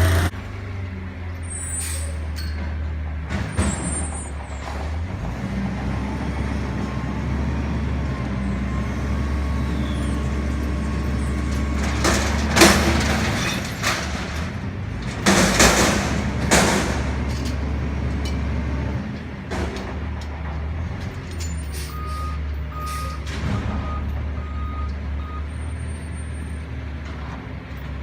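Garbage truck engine running steadily, with short, loud air-brake hisses about halfway through. A reversing beeper sounds six times near the end.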